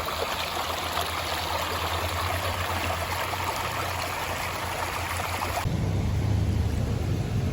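Flowing river water rushing steadily with a bright hiss. About three-quarters of the way through it switches abruptly to a deeper, duller rumble of water with much less hiss.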